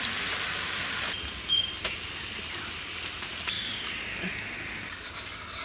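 Chicken curry masala frying and sizzling in a pan, a steady hiss that drops a little after about a second, with one sharp tick near two seconds in.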